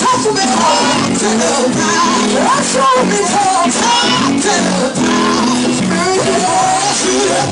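Gospel singing: a voice sliding through wavering runs over sustained instrumental chords, loud and continuous.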